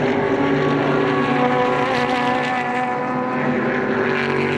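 Super GT race cars' engines running hard on track, a dense engine note that stays mostly steady with a slight dip in pitch around the middle.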